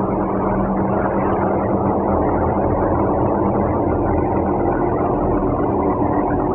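Steady, loud vehicle noise from a motorcade, with a constant low hum, heard through a poor, muffled microphone.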